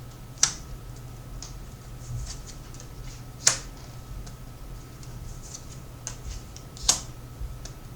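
Tarot cards being laid down on a table: three sharp slaps about three and a half seconds apart, with lighter ticks of card handling between them.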